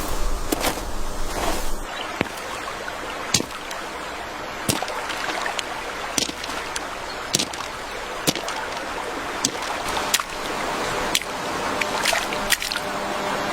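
Moving water with a steady rushing noise, broken by sharp clicks or knocks at irregular spacing, about one a second.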